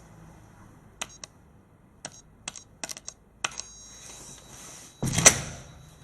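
A run of sharp clicks, about seven of them over two and a half seconds, like buttons or keys being pressed, then a single loud thud about five seconds in.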